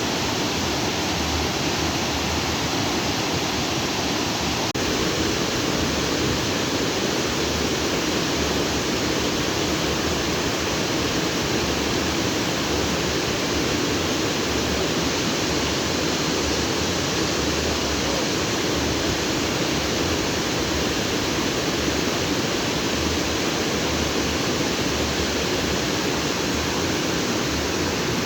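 A stream of water rushing freely over and between rocks: a steady, unbroken rush.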